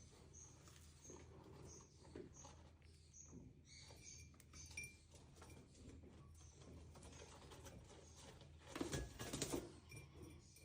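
Ringneck parrot making soft, short high chirps over and over, faint throughout, with a louder noisy burst lasting about a second near the end.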